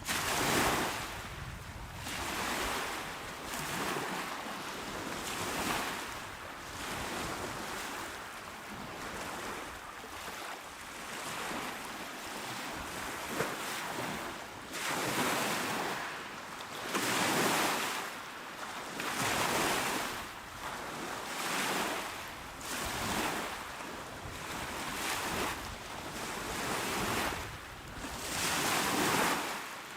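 Small waves washing onto a shore, each one swelling and then falling back every two seconds or so, one after another.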